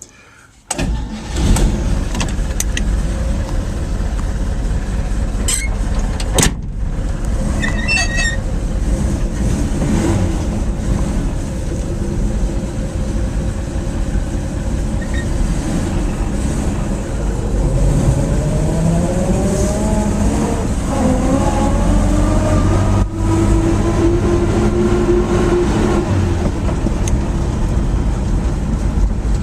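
Chevrolet 235 cubic-inch inline-six engine in a 1948–55 Chevy 3100 pickup, running after being put back into service. Its pitch rises twice in the second half as it is revved.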